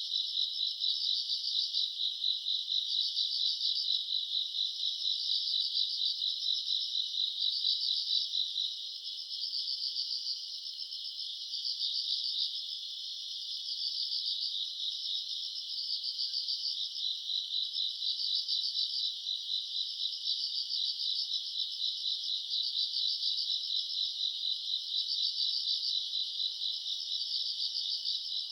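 Chorus of night-singing crickets trilling continuously, a high-pitched pulsing chirp that swells and eases in groups about once a second, dipping a little after about nine seconds.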